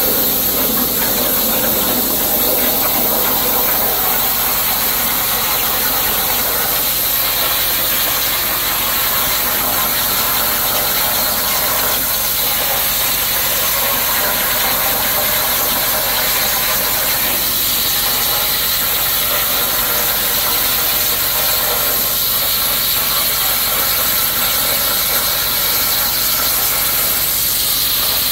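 CNC plasma torch cutting 3/4-inch plate: a loud, steady hiss that holds even throughout.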